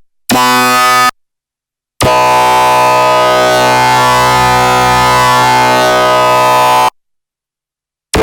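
Arturia MicroBrute analog synthesizer playing a sawtooth 'laser bass' patch: a short note, then a long note held steady for about five seconds, each cutting off into silence. A rhythmic run of notes starts right at the end.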